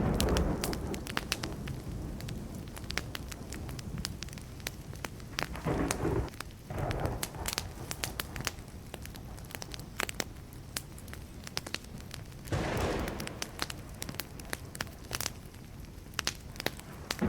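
Burning wood fire crackling, with dense sharp pops and snaps throughout. Short low rumbling swells come near the start, about six seconds in and about thirteen seconds in.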